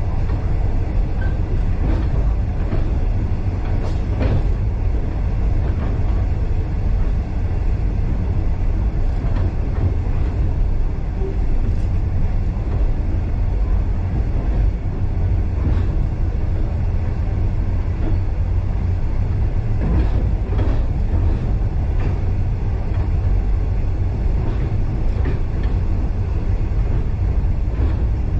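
Passenger train carriage running along the rails, heard from on board: a steady low rumble with occasional faint clicks and knocks.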